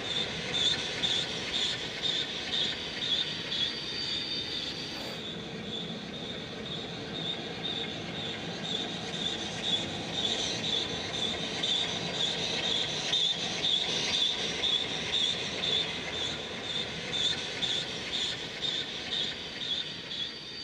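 A steam-hauled passenger train running along the line, with a steady rhythmic beat.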